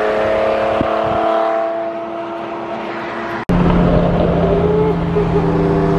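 Car engine running at a steady pace while driving, holding an even tone. About halfway through an abrupt cut gives way to a louder, deeper, steady engine drone.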